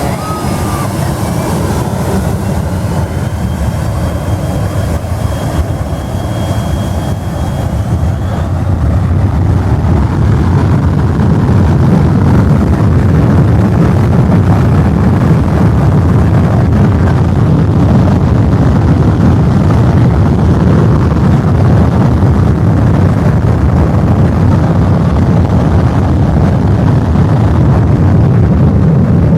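Airliner's engines at takeoff power: a loud, dense rumble with a faint high whine, swelling about nine seconds in and then holding steady.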